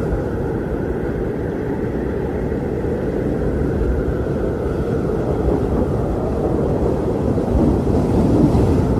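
Strong wind blowing steadily as a low rushing noise, swelling slightly near the end.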